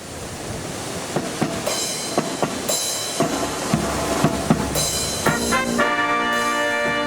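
Brass marching band opening a fanfare: a run of drum strokes, then sustained brass chords entering about five seconds in. Strong wind rumbles on the microphone throughout.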